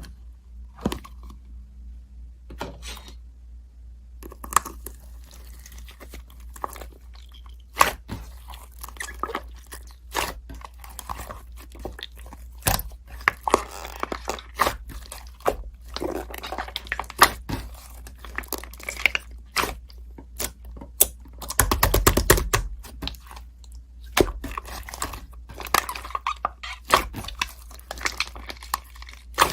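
Irregular close-up handling noises over a steady low hum: small clicks, scratching and rustling, with a quick rapid rattle about three quarters of the way through.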